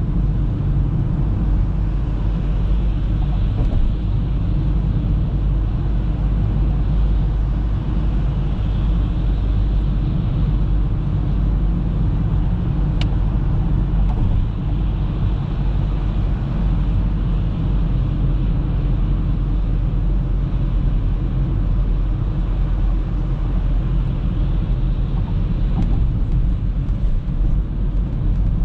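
Audi A3 driving on the road, a steady low rumble of engine and tyres. A single short high tick sounds about halfway through.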